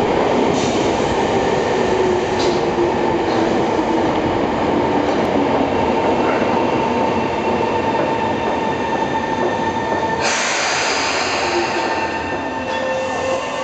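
Tobu 20050 series commuter train standing at a subway platform with its equipment running steadily. About ten seconds in comes a burst of air hiss lasting a couple of seconds, and just at the end a rising whine begins as the train starts to pull away.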